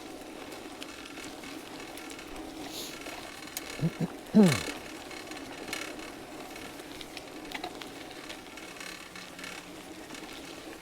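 Bicycle rear-hub freewheel ticking as the bike coasts, over steady riding noise. About four seconds in there is a brief, louder voice sound that falls in pitch.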